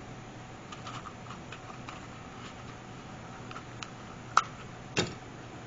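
Light taps and small clicks of hands handling craft materials on a tabletop, with two sharper clicks near the end.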